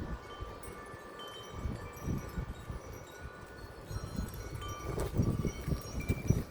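Metal wind chime ringing in gusty wind: several high, clear tones struck irregularly and left ringing. Gusts of wind buffet the microphone with a low rumble, strongest in the second half.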